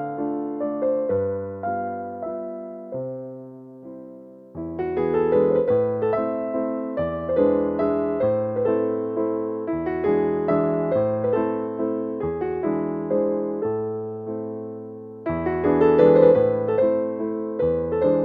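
Background piano music: a gentle melody of single notes over low bass notes, thinning out about four seconds in and swelling again near the end.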